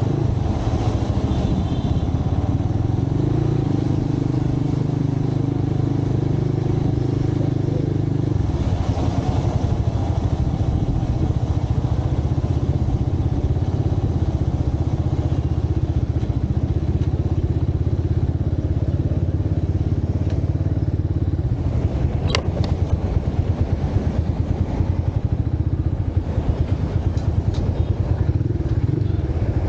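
Motorcycle engine running during a ride through city streets. Its note shifts about eight seconds in and becomes more pulsing in the last third, with one sharp click about two-thirds through.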